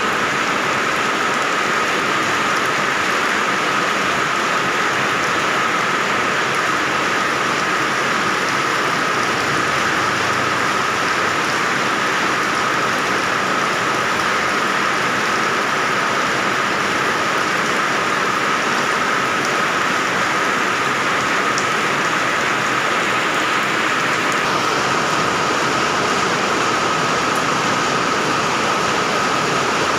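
Steady, heavy rain falling on surfaces, an even unbroken hiss, with a thin steady high tone running through it.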